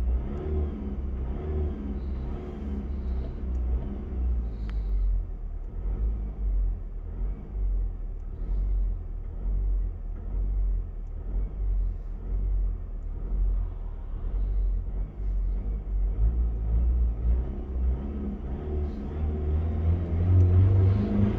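Car engine being revved repeatedly in short blips, the revs rising and falling every second or two over a deep rumble, with a bigger rev near the end.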